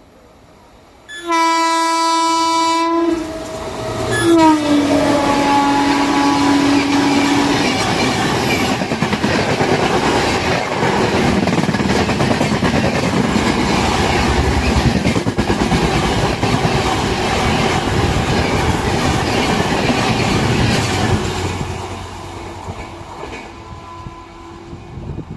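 Train horn sounding twice, the second blast dropping in pitch as the train passes close, then the train's wheels clattering over the rail joints for about a quarter of a minute before fading away.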